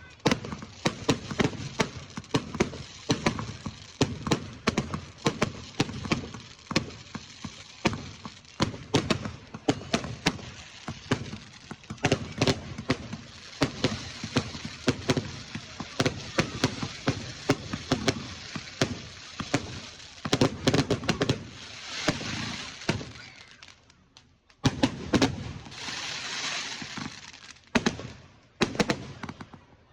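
Fireworks going off in a dense barrage: many sharp bangs a second mixed with crackling. There is a short lull about 24 seconds in, then more bangs and a burst of crackling.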